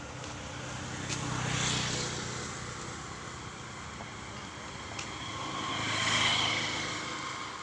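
Vehicles passing by: two swells of engine and road noise, each rising and falling away, one about two seconds in and one near the end.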